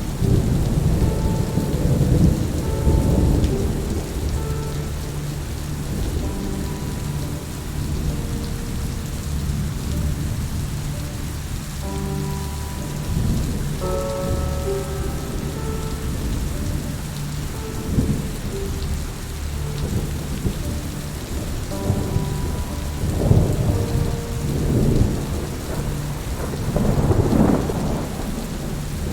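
Steady rain with rolling thunder, the rumbles swelling about two to three seconds in and several times near the end, over soft held musical notes.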